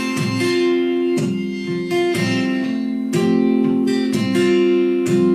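Acoustic guitar strumming chords in an instrumental break of a live country song, a fresh strum about once a second.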